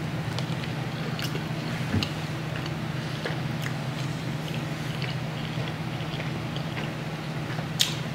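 A person chewing a mouthful of pork taco with her mouth closed: soft, scattered wet mouth clicks over a steady low hum.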